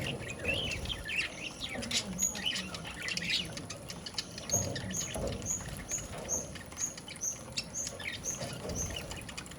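Budgerigar chirping and chattering, with a run of short, evenly spaced high chirps, about two to three a second, in the second half, over light pattering clicks.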